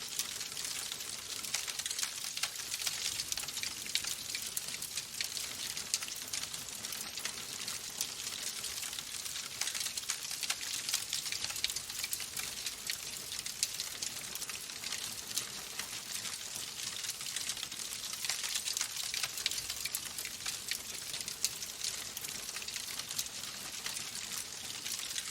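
Wood fire burning in a fireplace: a steady hiss with many small, sharp crackling pops.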